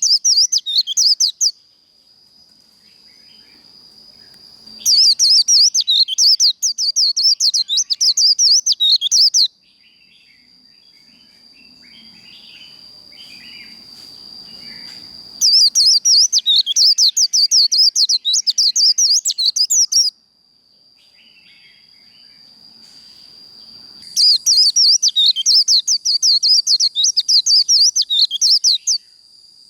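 White-eye (vành khuyên) singing its rapid, jumbled 'líu' warble in four loud bursts of about four to five seconds each, the fast fighting song used to fire up other white-eyes. A steady high-pitched trill carries on between the bursts.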